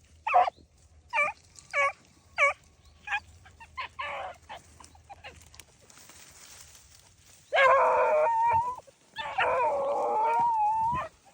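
Beagle baying on a cottontail rabbit's trail: a run of short barks about every half second, then two long drawn-out bawls in the second half.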